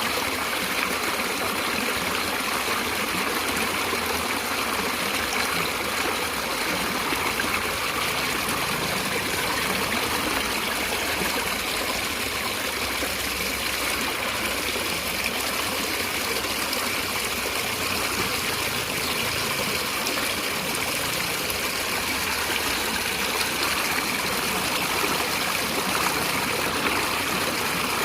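Stream of water running and trickling steadily.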